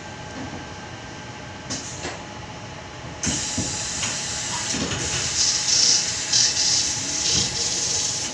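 Inside a Sydney Trains Tangara standing at a platform: a low steady carriage hum, then about three seconds in a sudden loud hiss of compressed air that runs on as the doors open.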